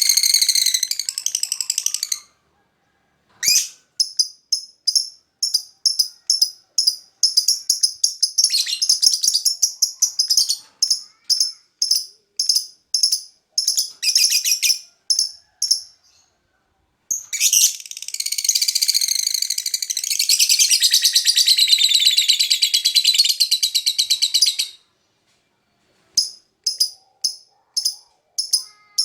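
Lovebird calling in quick, high-pitched chirps several times a second, then breaking into one long unbroken chattering trill lasting about eight seconds, before short chirps resume near the end.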